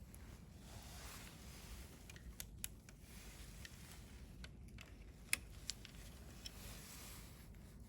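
Wood fire crackling softly, with a handful of sharp pops from the burning wood; the loudest pop comes a little past halfway.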